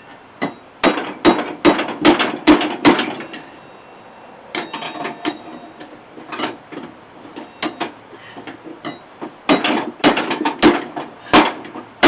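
Hammer blows on a riding mower's blade spindle, sharp metal-on-metal strikes that ring briefly, in runs of about two to three a second with a pause in the middle: knocking loose a spindle that is stuck overtight on the deck.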